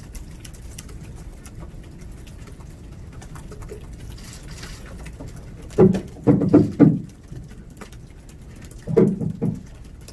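Quiet room tone with faint scattered clicks, broken by two short clusters of low humming voice sounds, about six and nine seconds in.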